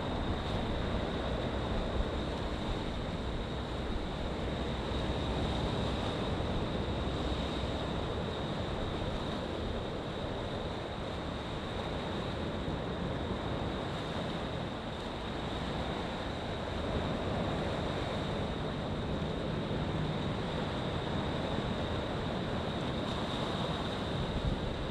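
Black Sea waves washing in with a steady, even rush, and wind buffeting the microphone. A thin steady high tone runs underneath.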